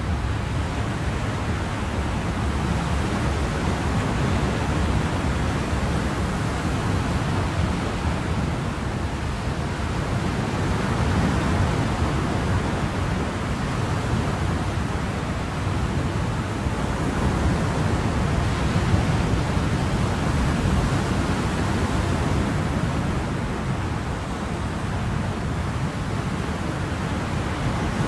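Ocean surf: a steady wash of waves, swelling gently now and then.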